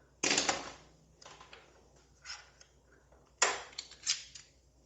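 Metal parts of a Harley-Davidson FLSTF's primary drive clinking and knocking as the assembly is worked loose and pulled out by hand. There is a clatter just after the start, light ticks in the middle and a sharper knock about three and a half seconds in.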